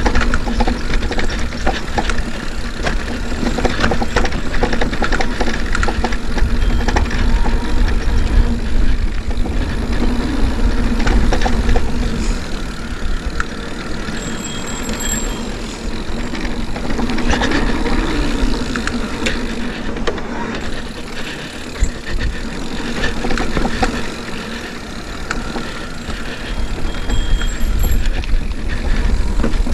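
Steady rumbling noise with many small clicks and rattles, typical of a mountain bike rolling over a dirt trail with wind on the camera microphone; it eases briefly a couple of times.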